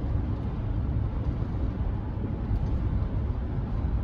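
Steady road and engine rumble inside the cab of a moving Chevrolet C10 pickup truck at highway speed.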